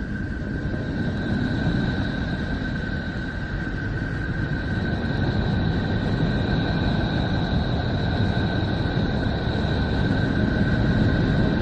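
The 'sound of Neptune': electromagnetic wave data recorded in space and converted into audio. It is a steady low rumble with a constant high whistling tone above it, growing slightly louder.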